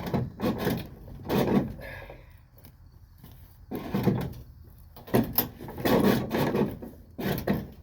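Hood of an International truck being pushed and worked shut: about six separate bangs and scrapes of the panel and latch as it refuses to close.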